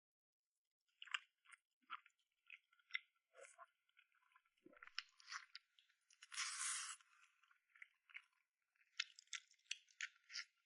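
Close-up mouth sounds of someone eating braised soft-shelled turtle: wet chewing and lip smacks in short, irregular clicks, with one longer sucking sound a little past the middle.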